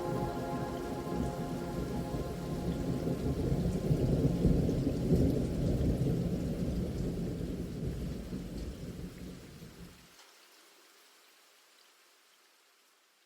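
Rain with a long rumble of thunder that swells about four to five seconds in, then fades out, leaving near silence.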